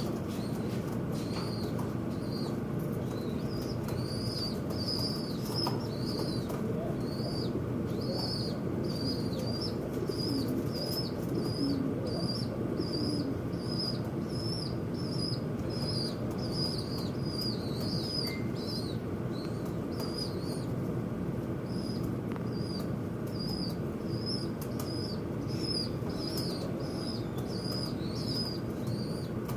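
Small bird calling in a steady series of short, high chirps, nearly two a second, over a steady low background noise.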